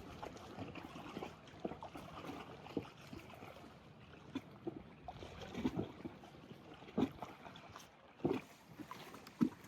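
Irregular knocks and rustling, with a few sharper knocks in the last few seconds.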